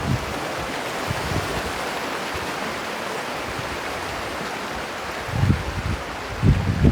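River water rushing steadily over stones. Low rumbles of wind on the microphone come in near the end.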